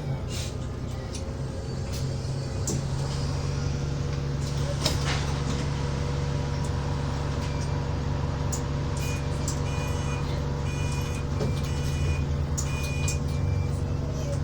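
Alexander Dennis Enviro400 double-decker bus heard from inside the cabin while driving: a steady engine drone with a constant whine, and occasional rattles and clicks. In the last five seconds or so, a series of short high beeps sounds.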